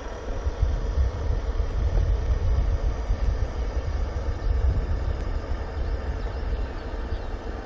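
Scratch-built radio-controlled model fire boat running steadily, its motor giving a continuous whine over a low rumble.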